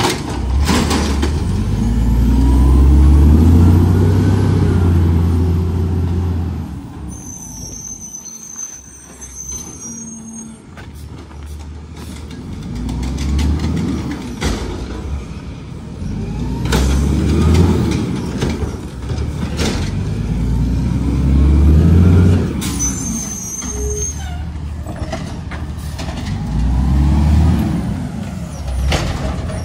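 Garbage truck's diesel engine revving up and falling back several times, with two hisses of released air, about seven seconds in and again near twenty-three seconds.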